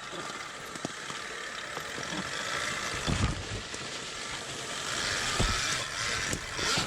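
Alta electric dirt bike being ridden on dirt, with no engine note: a steady hiss of wind and knobby tyres on the ground. A couple of low thumps come about three and five seconds in.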